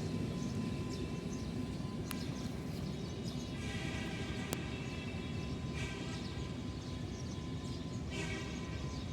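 Train hauled by a General Electric diesel locomotive running past with a steady rumble. Brief higher-pitched tones come and go three times.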